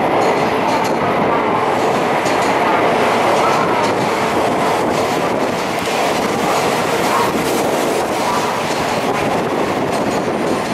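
N700A Shinkansen train pulling into the platform: a steady running noise from wheels and traction gear, with faint clicks.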